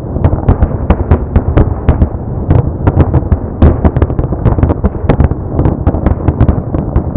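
Fireworks display: aerial shells bursting in a rapid, continuous barrage, several sharp bangs a second over a steady low rumble.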